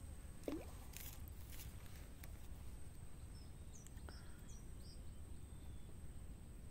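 Faint outdoor background noise: a steady low rumble with a thin high whine on top. Several short, high bird chirps come around the middle, and a brief falling sound about half a second in is the loudest moment.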